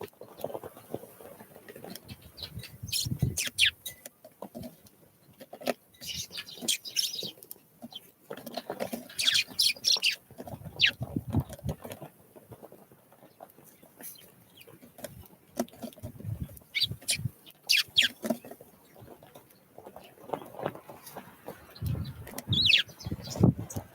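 Small wild birds calling with short, high chirps scattered throughout, among repeated low knocks and rustles.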